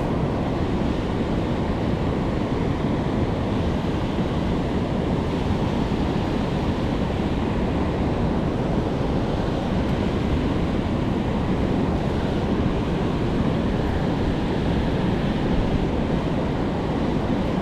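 Steady, unbroken rush of a fast, high river flowing over falls.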